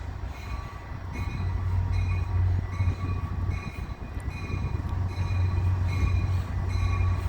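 Metra commuter train rumbling steadily at the station, with a bell ringing evenly, about three rings every two seconds.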